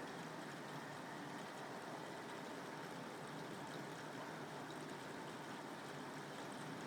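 Steady rain falling: an even, continuous hiss with faint scattered ticks of drops.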